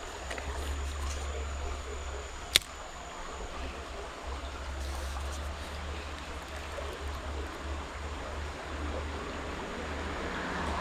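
Creek water running steadily, with a low rumble under it and a single sharp click about two and a half seconds in.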